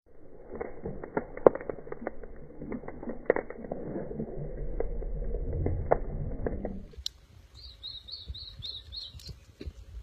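Wood campfire crackling and snapping with a low rumble. About seven seconds in, the sound changes, and a bird gives a quick run of about seven repeated high chirps.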